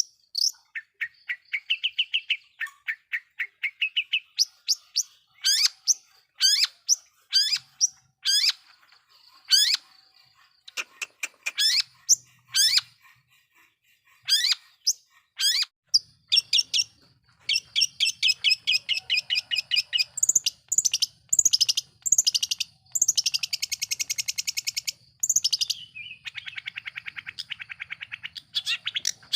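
Long-tailed shrike (cendet) singing a varied song of sharp, sweeping notes and quick runs of chattering notes, with a dense buzzy trill about two-thirds of the way through.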